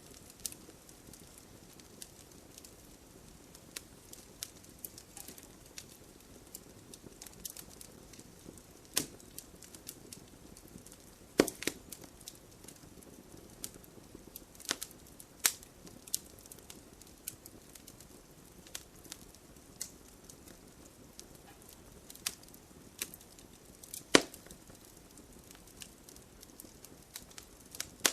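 Wood campfire burning and crackling: a low, steady hiss of flame under scattered sharp pops and snaps. The two loudest pops come a little before the middle and again near the end.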